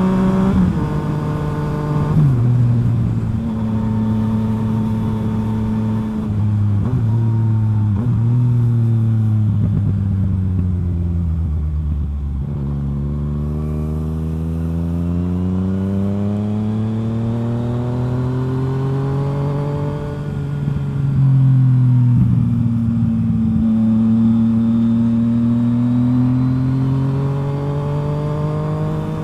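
Yamaha FZ-09's 847 cc inline-three through a full M4 exhaust, ridden on the road. The revs fall with a few stepped drops over the first dozen seconds, climb steadily, dip at a gear change about twenty seconds in, then climb again.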